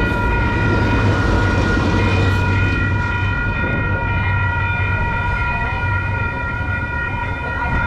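Train horn held on one steady, high tone over the low rumble of the passing train.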